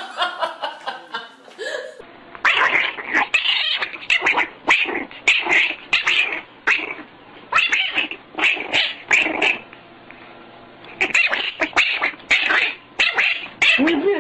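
A cat caterwauling: many short, repeated yowls in three bunches, with brief pauses between them.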